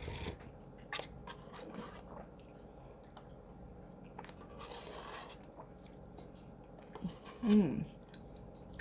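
Close-up eating sounds: biting and chewing with small crunches and clicks, and a short falling voice sound about seven and a half seconds in.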